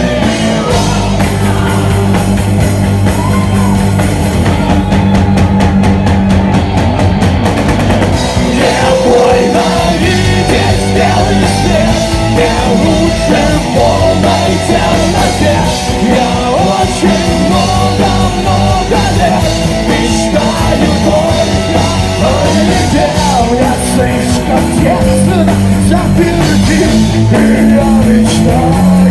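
Heavy rock music without vocals: drum kit, bass and guitars playing an instrumental break, with a wavering lead melody over them.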